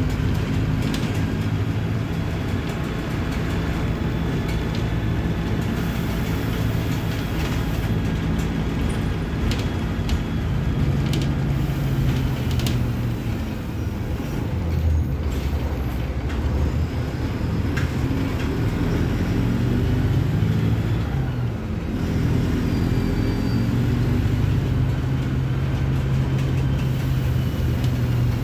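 Mercedes-Benz OF-1721 Bluetec 5 bus diesel engine running under way, its pitch falling and climbing again as the bus slows and accelerates, with a brief drop about two-thirds of the way through like a gear change. Short clicks and rattles come and go over it.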